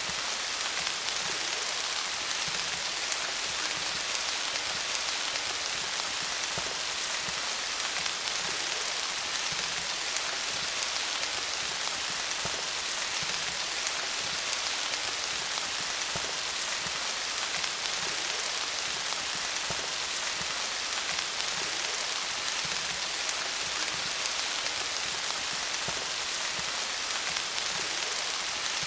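Steady rain falling on leaves, an even hiss dotted with many small drop ticks.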